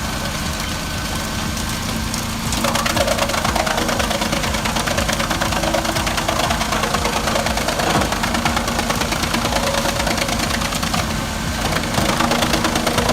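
Tractor engine driving a wood chipper, running steadily with a fast knocking pulse, getting louder under load about two and a half seconds in and again near the end.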